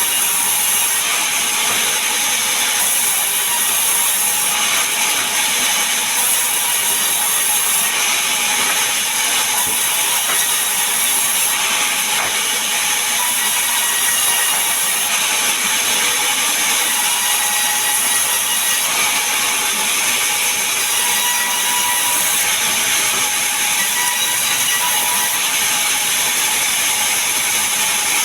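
Power saw cutting mahogany and pine timber, a loud, steady, continuous mechanical noise.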